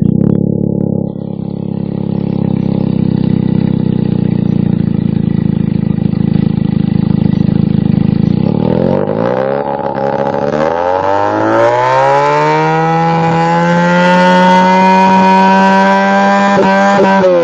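Benelli TNT300 parallel-twin engine through a loud aftermarket exhaust, idling steadily for about eight seconds. It is then revved up and held at high revs for the rest of the time.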